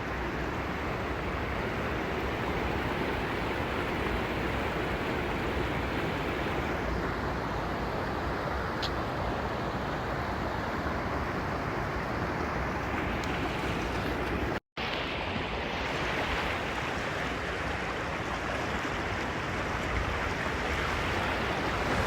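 Steady rush of a waterfall and its stream pouring over rocks, broken once by a split-second gap about two-thirds of the way through.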